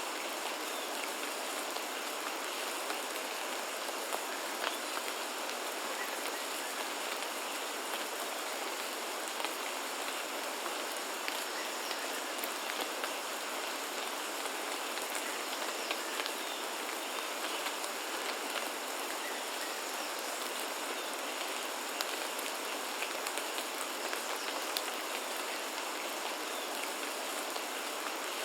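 Steady rain falling, an even hiss with scattered individual drop clicks.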